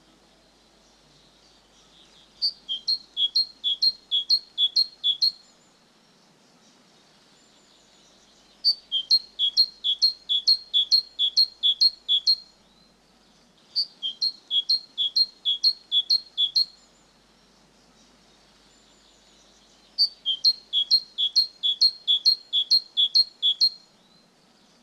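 A tit singing: four phrases of a quickly repeated two-note motif, a higher note then a lower one, each phrase lasting about three seconds with short pauses between.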